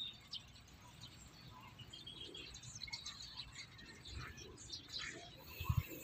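Faint birds chirping in short scattered calls over quiet outdoor background noise, with a couple of low thuds near the end.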